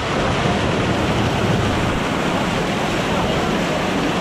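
Loud, steady rush of whitewater on the Ganges rapids, an even roar of churning water.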